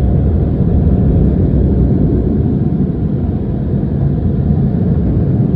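Automatic car wash machinery running: a loud, steady, low rumble.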